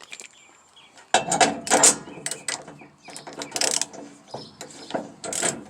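A 1/2-inch-drive ratchet clicking in repeated strokes as a large socket turns the nut of a trailer hitch ball, with metal clatter. It starts about a second in.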